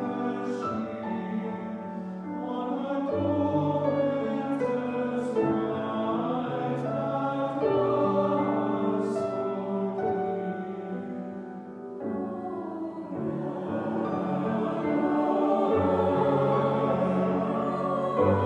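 Mixed choir singing a slow Christmas carol in sustained chords, with a brief swell and dip in volume near the middle.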